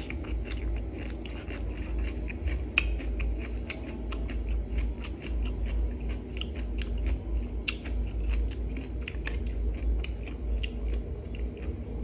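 A person chewing mouthfuls of green papaya salad close to the microphone, with many irregular crisp crunches and wet mouth clicks. A steady low hum runs underneath.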